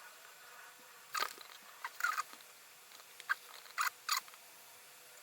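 Hands handling a circuit board and setting it under a microscope: a scatter of small clicks and scrapes, over a faint steady hum.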